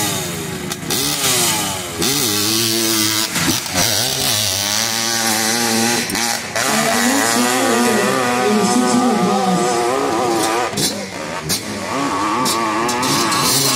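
A 600cc-class hillclimb motorcycle engine revving hard on the climb. Its pitch rises and falls over and over, with brief cuts in the throttle.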